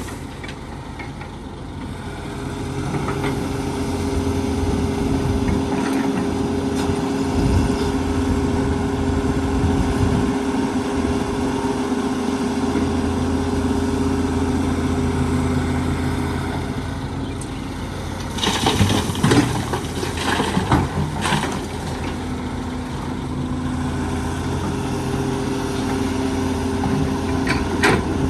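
Heavy diesel engine of an excavator running steadily, with a few seconds of loud rattling and crashing about two-thirds of the way through.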